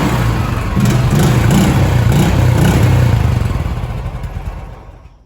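Royal Enfield Classic 350's single-cylinder engine and exhaust running, revved in several short throttle blips, then fading out near the end.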